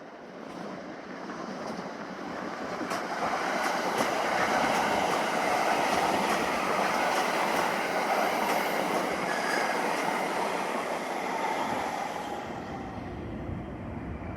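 A train running past, its wheels clicking over the rail joints. The sound builds over the first few seconds, stays loud through the middle and fades near the end.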